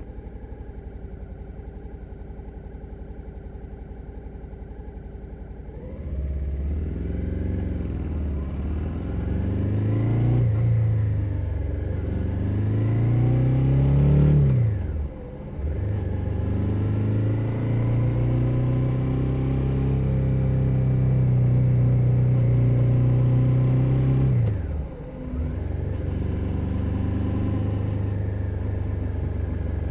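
2021 Suzuki SV 650's 645 cc V-twin engine idling steadily for about six seconds, then pulling away. Its revs rise and fall, with short sharp drops about three times as the gears are changed.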